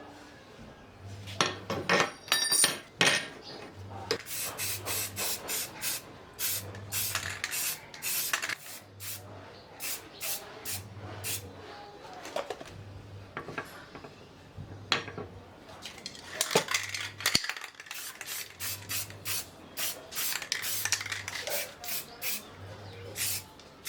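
Steel against metal: many short clinks and scrapes in irregular clusters, the sound of hand-made metal tyre levers being handled and worked.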